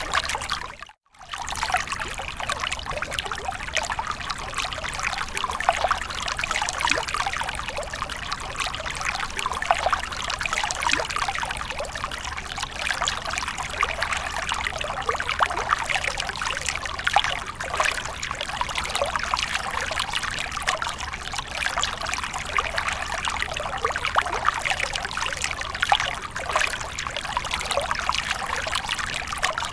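Water splashing and trickling steadily, a dense patter of small splashes, with a brief break to silence about a second in.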